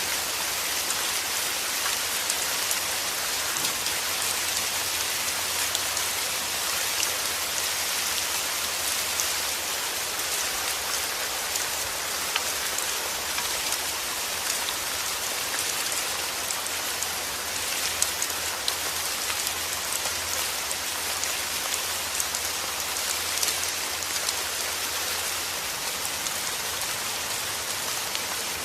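Heavy rain falling steadily, a dense hiss of drops with small individual drop ticks scattered through it.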